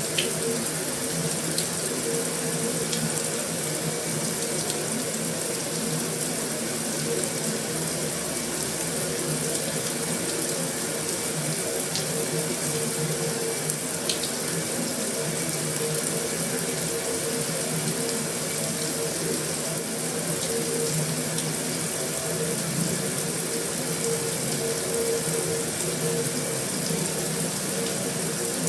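Heavy rain falling steadily on a metal roof: an even hiss with a few faint ticks of single drops and a steady hum underneath.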